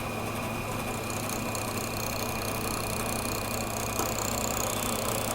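Drill press motor running steadily at about 1200 RPM, used as a lathe, while a drill-bit cutting tool is fed into a spinning wooden pulley blank.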